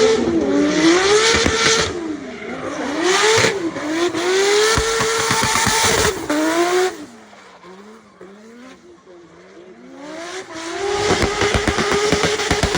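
Turbocharged BMW E36 M3's S54 straight-six drifting: the engine revs rise and fall over tyre squeal for about seven seconds, drops to a much quieter, lower drone for about three seconds, then comes back loud, held at a steady high pitch with a rapid stutter, on the rev limiter.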